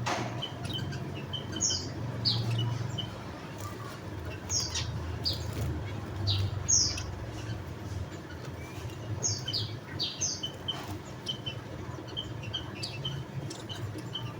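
Javan munias calling: scattered short, high chirps that sweep down in pitch, with softer quick notes in between, over a low steady hum.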